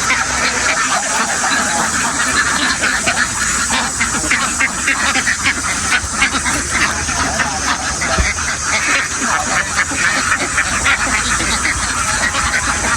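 A large flock of domestic ducks quacking together in a dense, unbroken chorus of overlapping calls.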